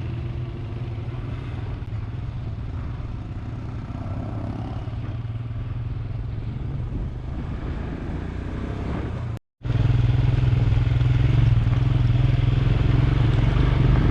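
Royal Enfield Himalayan single-cylinder motorcycle engine running steadily with a low, even beat. It cuts out for an instant about nine and a half seconds in, then returns louder.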